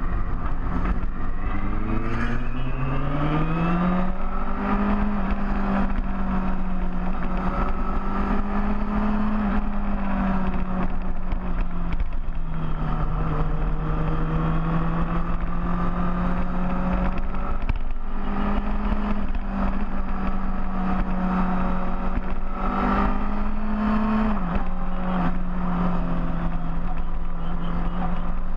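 Large motorcycle engine running under way, rising in pitch as it accelerates over the first few seconds, then holding a steady cruising note. The pitch dips suddenly a few seconds before the end and climbs back.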